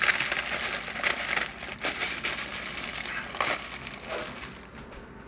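Packet of instant ramen noodles being crushed by hand to break up the dry noodle block: crinkling of the plastic wrapper with crunching of the noodles, tapering off near the end.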